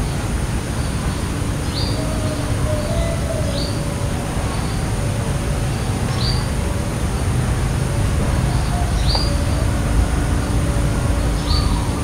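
A small bird giving short, high, falling chirps about every two to three seconds over a steady low rumble.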